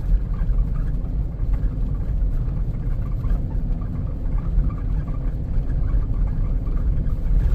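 Blizzard wind buffeting the microphone: a loud, continuous low rumble that wavers in strength.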